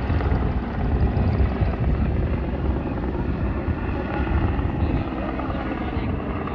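Helicopter running close by, its rotor and engine making a loud, steady, rapidly pulsing beat.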